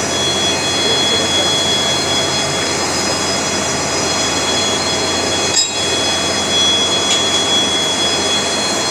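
Steady machinery noise with a constant high-pitched whine, briefly dipping about five and a half seconds in.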